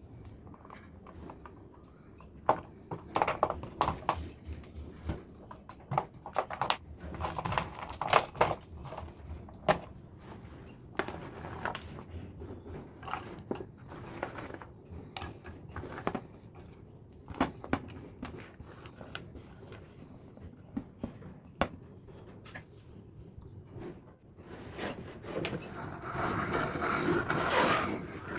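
Irregular clicks, knocks and crinkling of objects being handled, then a louder continuous noise that builds near the end.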